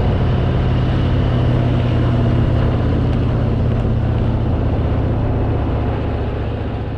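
Harley-Davidson Fat Boy's V-twin engine running steadily while riding, with a broad rush of wind and road noise; the sound fades out near the end.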